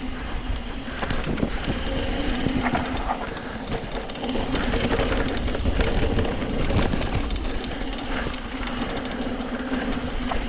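Downhill mountain bike rolling fast over a dirt trail: tyre rumble and wind on the microphone, with a steady stream of rattles and clicks from the bike.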